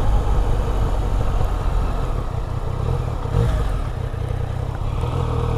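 Yamaha MT-09 motorcycle engine running steadily at low revs while riding, with road and wind noise.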